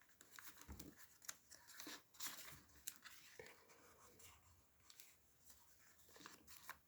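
Faint rustling and soft ticks of paper pages being handled and turned in a handmade junk journal.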